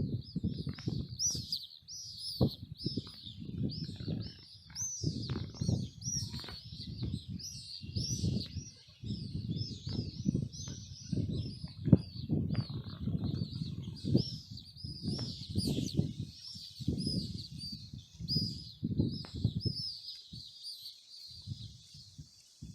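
Many sparrows chirping together in a dense, continuous chorus of short high chirps. Under them, a low rumble comes and goes in irregular bursts every second or so.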